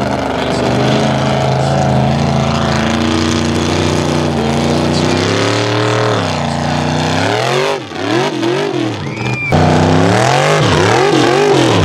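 Mega mud truck's engine run hard: it climbs and holds at high revs, falls off about seven seconds in, is blipped up and down in quick swings, then goes back to full revs near the ten-second mark.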